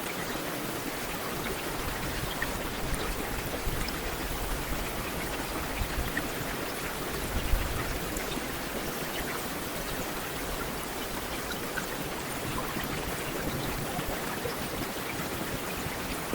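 Heavy rain falling steadily, a dense even hiss with scattered individual drops ticking, and one brief low thump about seven seconds in.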